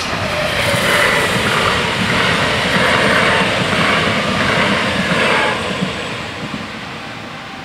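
Bombardier Talent 2 electric multiple unit passing over a level crossing: a rush of wheel and running noise that swells, stays loud for a few seconds and fades away after about five and a half seconds.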